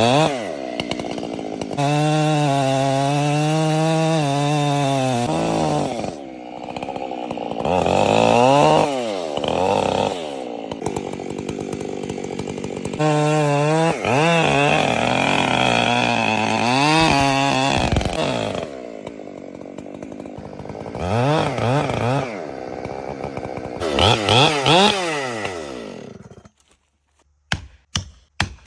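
Long-bar two-stroke chainsaw cutting into a large tree trunk. The engine runs at high revs under load, drops back several times and revs up again, then cuts off near the end.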